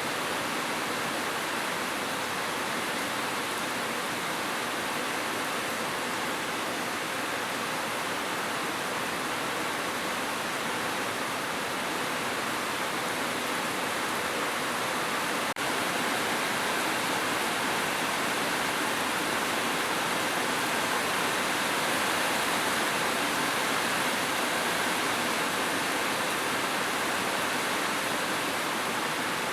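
Heavy, steady rain pouring on a roof, an even hiss with no break in it except a tiny dropout about halfway through.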